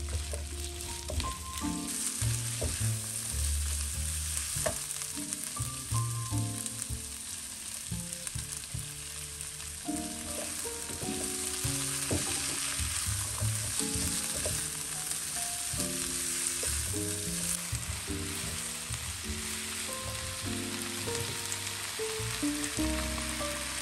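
Chillies and torch ginger stir-frying in a wok: a steady sizzle with the taps and scrapes of the spatula. Quiet background music with slow held notes plays underneath.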